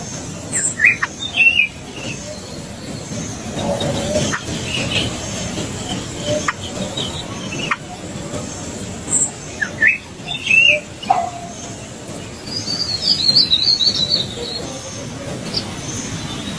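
Birds chirping: scattered short high chirps and quick slurred notes, with bursts of rapid twittering at the start and again near the end.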